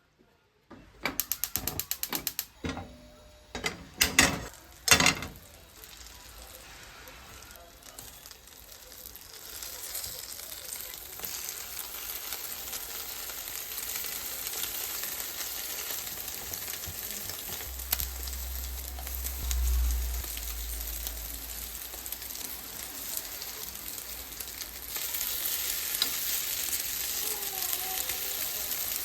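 Rapid clicking for about a second and a half and a few sharp knocks. Then food sizzling as it fries in a pan, growing steadily louder and louder again near the end.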